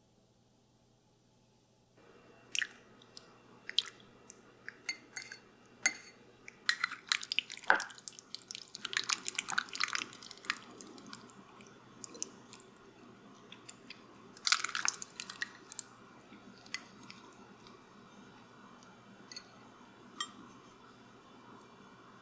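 Close-up kitchen sounds of food and utensils being handled: irregular clicks, taps and clatter, busiest a third of the way in and again around two thirds, over a faint steady hum.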